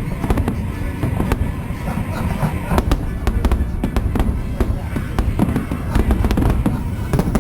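Fireworks going off in a dense run: many sharp bangs and crackles in quick succession over a continuous low rumble.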